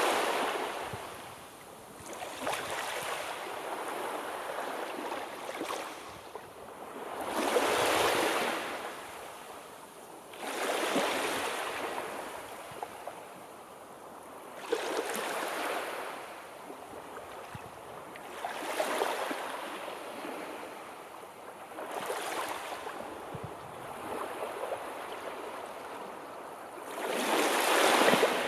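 Sea waves breaking on a shore, a swell of surf every three to four seconds, each washing in and fading away.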